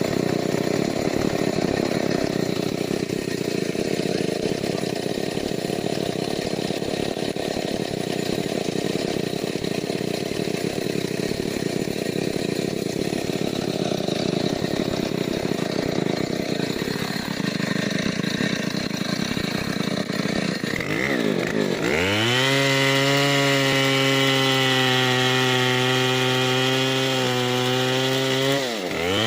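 Stihl 070 two-stroke chainsaw cutting into wood under load for about twenty seconds, a dense, noisy sound. The engine then revs up and runs at a high, steady pitch as the bar frees from the cut. Near the end it briefly drops and revs back up.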